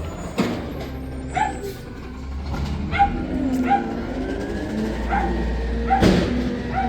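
A dog barking and yipping in short, uneven yelps, about seven times, over the steady low rumble of a garbage truck's engine, with a sharp knock about half a second in and another about six seconds in.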